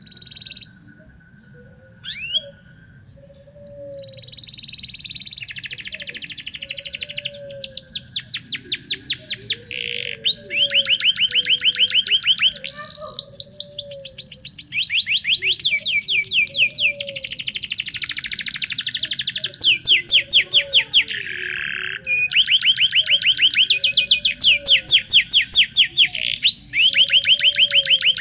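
Domestic canary singing: a few short chirps, then from about four seconds in a nearly unbroken song of fast, high trills (rolls) that switch from one repeated note to another every second or two.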